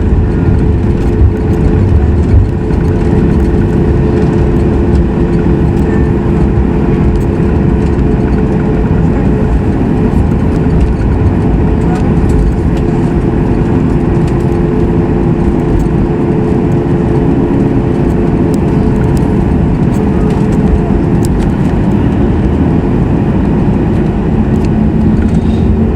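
Cabin noise of a Boeing 737 MAX 8 after landing: the steady drone of its CFM LEAP-1B engines at idle thrust, with a low rumble, a steady hum and scattered light clicks.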